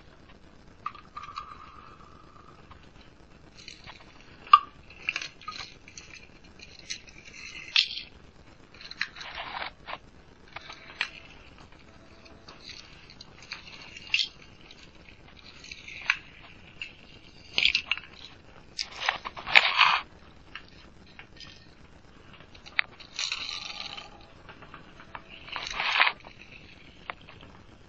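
Handling noise of small toy cars being picked up and moved about: scattered clicks and light knocks, with short bursts of scraping and rustling.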